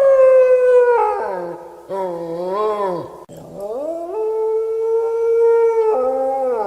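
Wolf howling: several long drawn-out howls in a row. The first slides slowly down, a shorter one wavers, and then a long howl rises and holds steady before a last short one falls away near the end.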